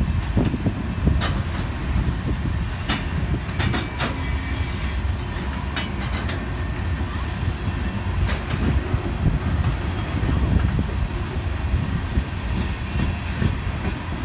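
Train rolling past: a steady low rumble with sharp clicks of wheels over rail joints, and a brief high wheel squeal about four to five seconds in.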